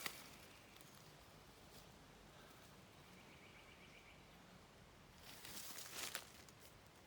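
Quiet rainforest ambience with a faint, rapid, high-pitched trilling call in the middle. Footsteps rustle briefly for about a second, about five seconds in.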